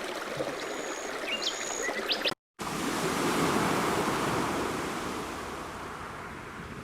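Running stream with a few short, high bird chirps, broken by a moment of silence about two seconds in; then surf, a wave swelling and slowly fading away.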